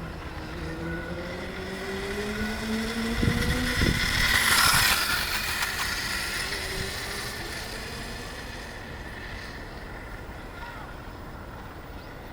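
DuraTrax DXR500 electric RC motorcycle running, its 3800kV brushless motor whining with pitch glides as the throttle changes. The sound grows louder to a peak about four to five seconds in, then fades.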